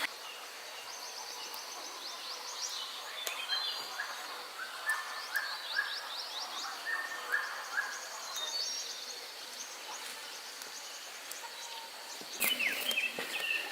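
Birds chirping in repeated short phrases of quick notes, over a steady high insect drone. A louder run of chirps starts near the end.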